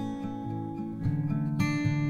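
Background music: acoustic guitar plucked and strummed.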